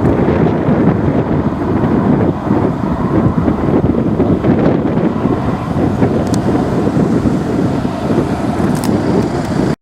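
Wind buffeting the microphone, a loud, gusty low rumble.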